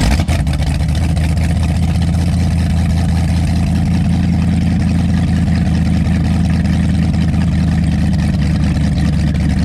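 Avanti 33 powerboat's V8 engine idling steadily just after starting, with a deep, even rumble.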